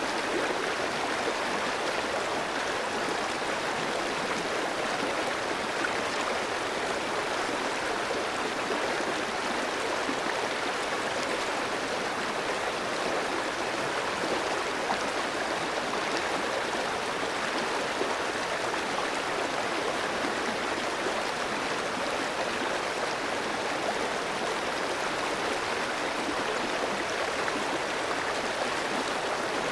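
Clear stream flowing steadily over rocks, an even rushing and gurgling of water.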